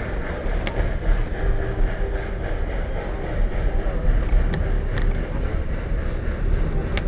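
Train rolling along the track, heard from an open-sided passenger car: a steady rumble of wheels on rails with a few sharp clicks.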